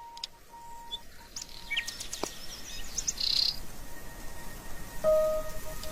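Birds chirping: short, high calls and quick sweeps scattered through. Underneath is a faint steady held tone that drops out about two seconds in, and a lower one that comes in about five seconds in.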